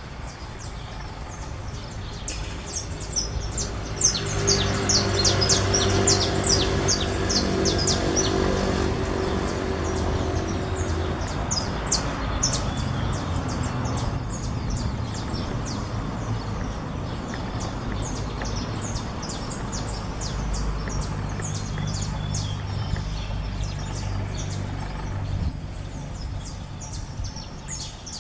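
Saffron finches chirping and singing in quick runs of short, high chirps. Under them a low engine hum swells about four seconds in, fades, and comes back later.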